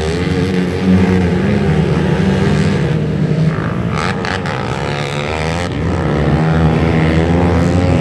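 Motocross dirt bikes racing, several engines revving up and falling off over and over as riders work the throttle around the track.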